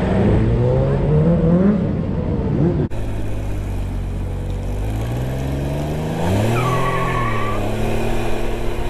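Motorcycle engine accelerating as the rider pulls away, its pitch climbing in rising sweeps through the gears. The sound breaks off abruptly about three seconds in, then climbs again before levelling off.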